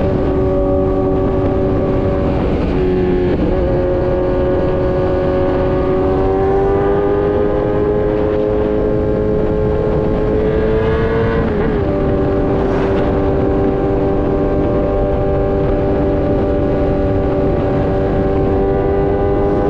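Kawasaki Z900's inline-four through an Austin Racing full exhaust, pulling steadily with its note climbing slowly, and dipping briefly twice, around three seconds and near twelve seconds in, as it shifts gear. A steady rush of wind and road noise runs beneath it.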